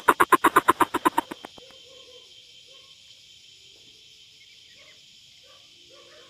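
A coucal calling: a rapid series of deep hooting notes, about eight a second, that fades away about a second and a half in. After it come only a faint steady hiss and a few soft scattered notes.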